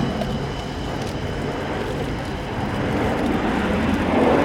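Airbus A400M's four Europrop TP400 turboprops running during a flying display, a steady drone that grows louder near the end.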